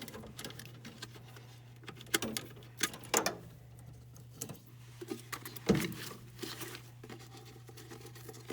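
Scattered clicks, taps and scraping as parts of a gas furnace's induced draft motor assembly are worked loose by hand, with a sharp knock about two thirds of the way in, over a steady low hum.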